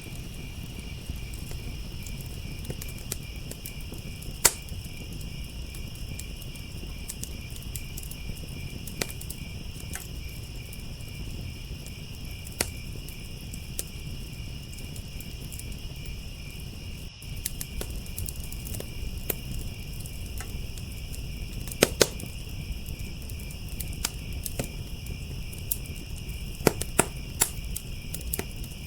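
Crickets trilling steadily, with a wood fire crackling and popping over a low steady rumble. A few louder sharp pops stand out, about four seconds in, around two-thirds of the way through and near the end.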